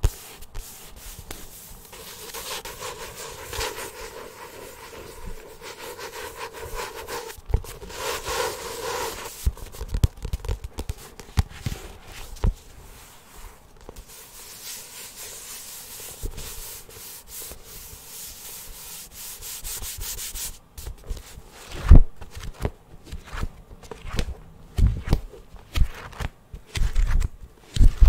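Close-up rubbing and scratching on a surface, a steady sanding-like friction, followed near the end by a few sharp taps.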